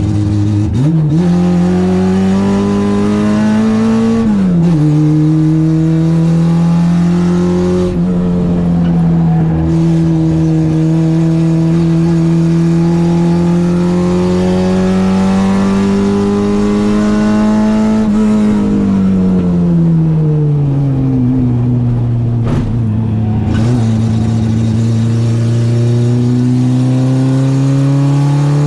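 Citroen AX's four-cylinder 8-valve engine on twin Weber 40 carburettors running hard: the revs climb, drop sharply at a gear change about four seconds in, climb slowly for a long stretch, fall away in the second half, then rise again near the end.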